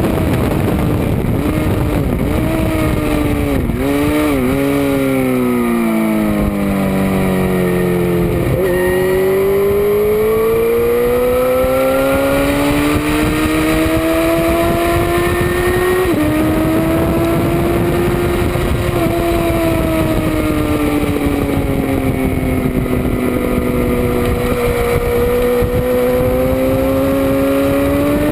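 Onboard engine of a track-day vehicle at speed, its pitch falling with several quick throttle blips on downshifts a few seconds in, dropping to its lowest just after that, then climbing steadily as it accelerates out, with a sudden step at about the middle. Constant wind rush over the microphone.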